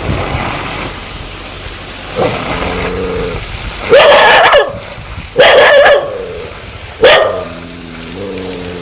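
Dog barking aggressively, a threat to bite: three loud barks about 4, 5.4 and 7 seconds in, the first two drawn out, with lower, longer vocal sounds before and after them.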